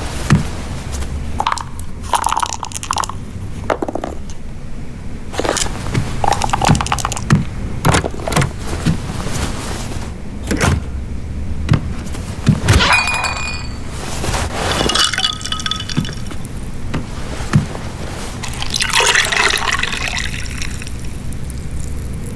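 Household ambience: tableware clinking with short ringing notes and scattered clicks and knocks, over a steady low rumble, with a brief pouring hiss near the end.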